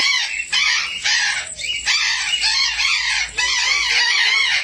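Many aviary birds calling at once: a dense, loud chatter of overlapping short calls and squawks, broken by a few brief dips.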